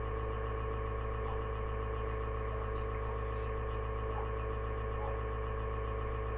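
Steady electrical hum with a dense stack of even overtones, unchanging throughout.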